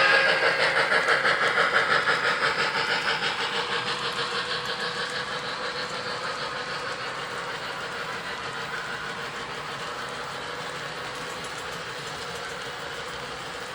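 Model train running on the layout track with a fast, rhythmic clicking pulse that fades steadily as it moves away, over a steady hum.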